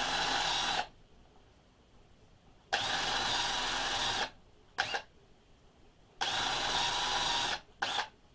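Power drill run in short bursts: three steady runs of about a second and a half at an even pitch, separated by quiet gaps, with two quick blips of the trigger in between.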